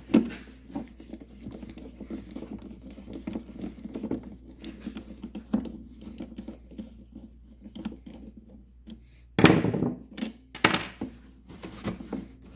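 Hands and a tool working a clamp on a Stihl BR600 backpack blower's tube to loosen it: small clicks and handling noises, a sharp knock just after the start, and two louder noises near the end, the first about half a second long.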